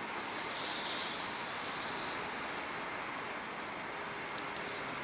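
Steady rushing outdoor background noise, with a bird giving a short, high, falling chirp twice about three seconds apart and a few sharp clicks just before the second chirp.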